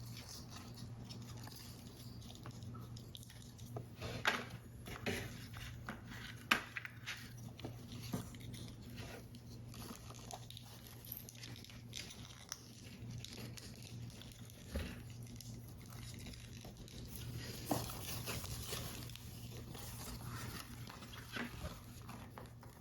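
Paper-model pieces of thin card being handled and assembled by hand: scattered light taps, clicks and crinkly rustles, with a few sharper ticks, over a steady low hum.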